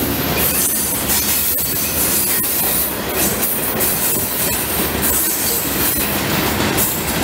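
Steel-wheeled open-top hopper cars of a freight train rolling past at speed, with a steady rumble and clatter of wheels on rail. A high-pitched wheel squeal comes and goes every second or so.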